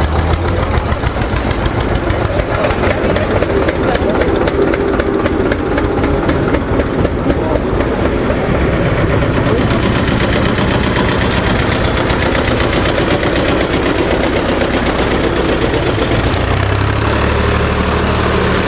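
A car engine running steadily close by, its exhaust giving a rapid, even pulsing.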